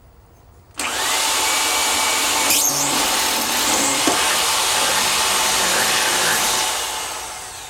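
A power tool working steel starts suddenly and runs with a loud, steady hiss for about six seconds. Its motor tone rises briefly at the start, and the sound tapers off near the end.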